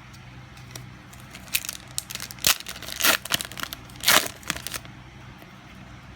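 Foil trading-card booster pack wrapper being handled: a run of crinkles and sharp crackles lasting about three seconds, the loudest near the middle.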